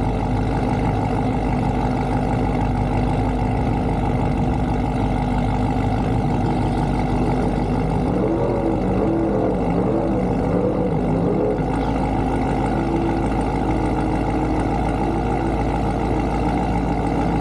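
Car engine idling steadily with a deep, even rumble. From about eight to eleven seconds in, a wavering tone rises and falls over it.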